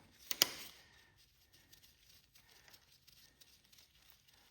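Two sharp clicks close together about half a second in, then faint scattered ticks and rustling: hands and tools working loose the control linkage and its keepers on a garden tractor.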